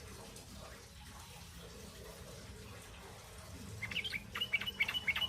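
Juvenile yellow-vented bulbuls (trucukan) giving rapid begging chirps in a quick, busy run. The calls begin about two-thirds of the way in, over a faint steady hiss.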